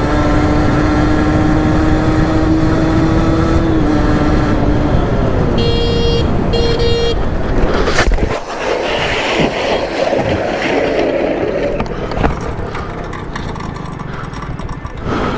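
A vehicle engine runs at a steady speed, then drops in pitch as it slows. A horn sounds twice, briefly, and a sharp knock follows about eight seconds in, then rougher road noise.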